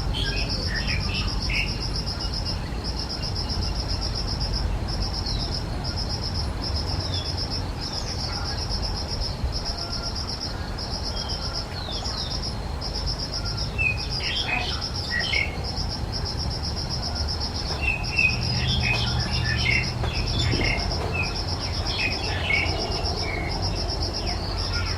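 An insect trilling steadily in a high, evenly pulsed song, with small birds chirping in scattered bursts, busiest about midway and again in the last several seconds.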